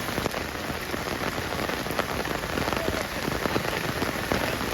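Steady rain falling, with many close raindrops ticking sharply on surfaces.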